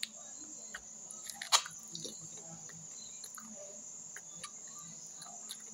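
A person chewing and gnawing meat and sinew off a beef bone held in the hand, with scattered wet mouth clicks and smacks and one sharper click about a second and a half in. A steady high-pitched cricket chirring runs behind.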